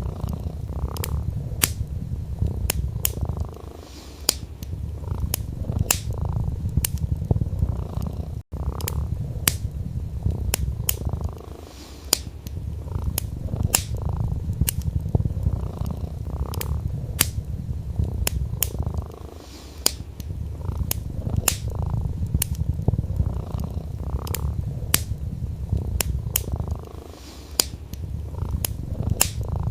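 A domestic cat purring steadily, the purr easing off briefly about every seven or eight seconds between breaths. Over it, a wood fire crackles with frequent sharp pops. The whole sound cuts out for an instant about eight seconds in.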